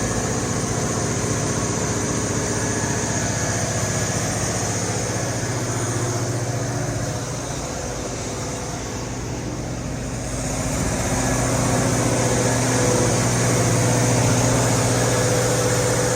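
Cummins KTA50-G9 V16 diesel engine of a 1500 kW generator set running at a steady speed. It drops a little in level about seven seconds in and comes back louder about three seconds later.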